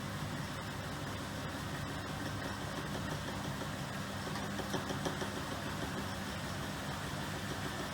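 Miele Professional PW6065 Plus washing machine running: a steady low hum under an even rushing noise.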